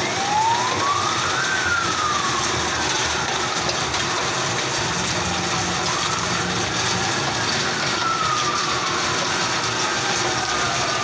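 Fire engine sirens wailing, each tone slowly rising and falling, with two or more overlapping and out of step in the later part, over a steady rushing noise.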